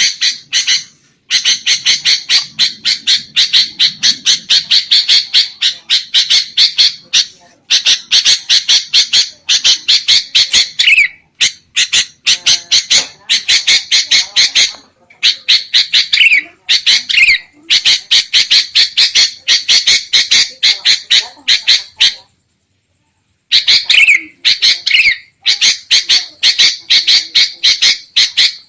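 Sooty-headed bulbuls giving noisy, agitated chattering calls: rapid harsh notes, several a second, in runs of a few seconds with short pauses. There is a brief dead silence about 22 seconds in.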